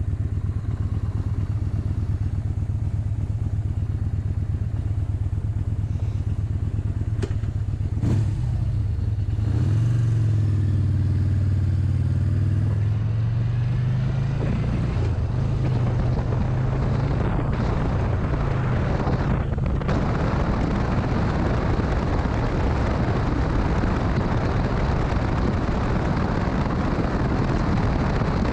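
Motorcycle engine running steadily, then revving up and down through gears about a third of the way in. After that a broad wind rush from riding at speed covers most of the engine sound.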